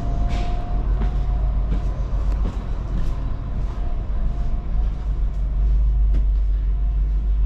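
Regional train heard from inside the carriage: a steady low rumble with a faint steady whine and scattered light clicks.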